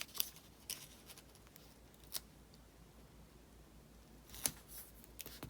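Faint handling of paper and planner stickers: a few light, separate clicks and taps with quiet gaps between them.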